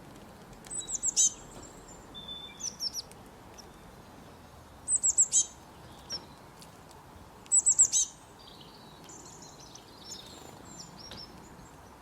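Small birds singing: one repeats a short burst of four or five quick, very high notes three times, a few seconds apart, with softer chirps and a brief whistle in between, over a steady low hiss.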